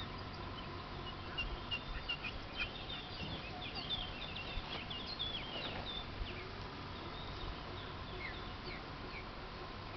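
Many short, high bird chirps in quick succession, thickest in the first half and thinning out after about six seconds.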